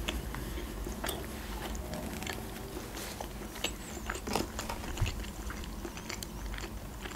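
A person chewing a mouthful of club sandwich close to the microphone: short, irregular clicks of mouth and food.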